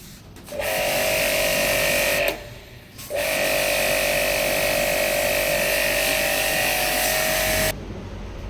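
A small electric motor runs with a steady whine in two bursts, a short one of under two seconds and then a longer one of about four and a half seconds, starting and stopping abruptly each time.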